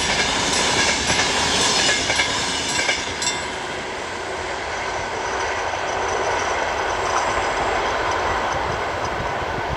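Double-deck InterCity passenger train rushing past at speed, its wheels clicking over the rail joints, until the sound drops away about three seconds in as the last carriage clears. After that the level crossing's warning bell keeps ringing steadily while the train's rumble fades into the distance.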